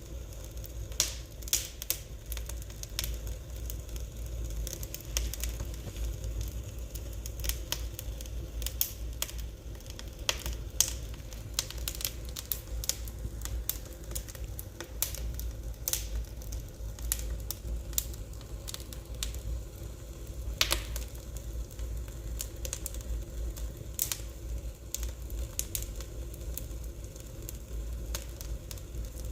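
Wood fire crackling in a fireplace: irregular sharp snaps and pops, several a second, some louder than the rest, over a steady low rumble.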